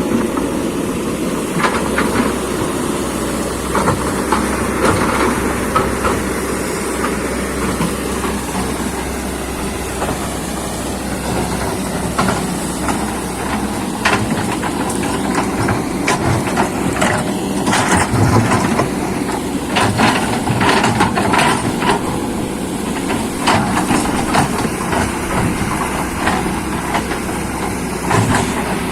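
Excavator diesel engine running steadily under load, with irregular metallic clanks and knocks through it, more of them in the second half.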